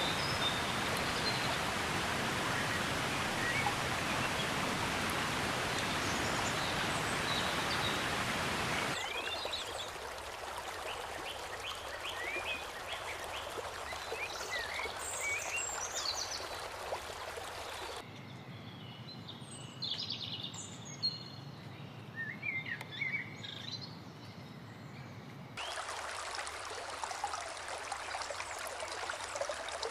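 Forest ambience: a steady rush of flowing creek water at first, then songbirds chirping and calling over a quieter background. The background changes abruptly about nine, eighteen and twenty-six seconds in.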